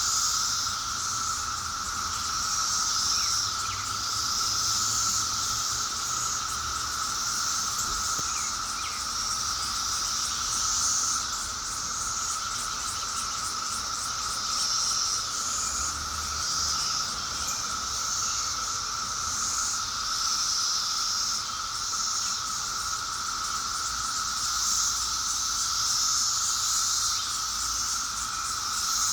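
Outdoor insect chorus: a high trill that swells and fades every second or two over a lower steady drone.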